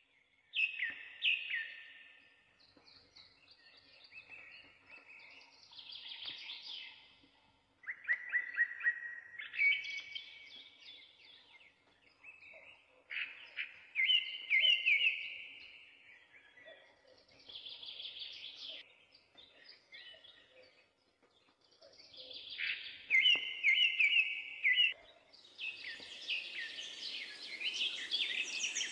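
Birds singing: short phrases of quick repeated chirping notes, coming every few seconds with brief pauses between them. A steady hiss rises under the song near the end.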